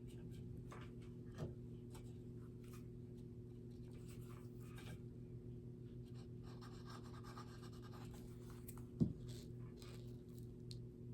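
Faint rustling and scratching of dry reindeer moss being handled and pressed onto a small wooden birdhouse, over a steady low hum, with a soft knock about nine seconds in.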